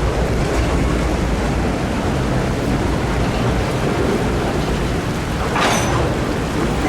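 Freight train rolling slowly through floodwater over the track: a steady low rumble with a hiss of churned water, and a brief sharper hiss about five and a half seconds in.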